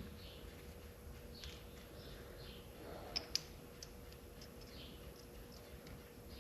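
Quiet workshop with faint scattered ticks of metal hand tools being handled, and two sharp clicks close together about three seconds in.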